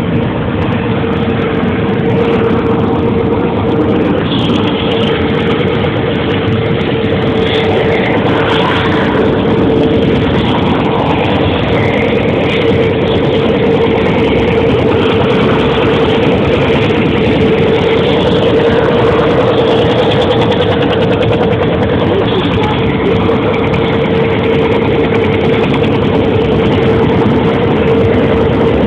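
Helicopter running steadily: a loud, continuous engine and rotor noise with a constant mid-pitched drone through it.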